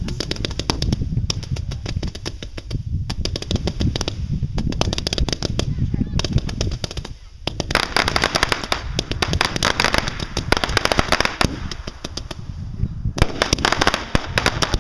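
Fireworks going off in a rapid barrage of sharp cracks and bangs, many reports a second like firecracker strings, with a brief lull about seven seconds in before the crackling resumes more densely.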